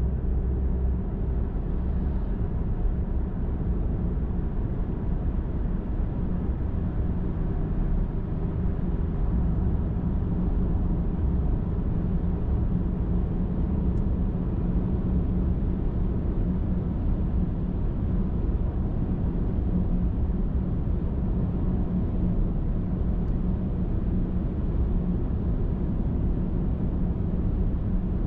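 Car driving at steady road speed: a continuous low rumble of tyres on the road with a steady engine hum, unchanging throughout.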